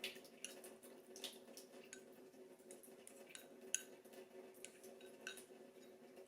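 Faint, scattered light clicks and taps of kitchen utensils and dishes, the sharpest a little under four seconds in, over a steady low hum.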